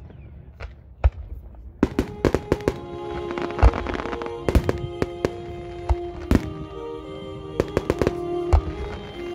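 Fireworks bursting in a rapid string of sharp bangs and crackles over music from the show's sound system. The first two seconds are sparser, with only a couple of bangs.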